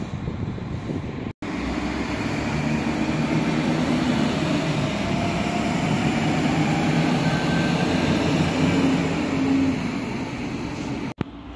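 A red regional diesel railcar running past the platforms, its engine drone and wheel rumble steady, with a faint rising whine in the middle. The sound drops out for a moment about a second in and cuts off near the end.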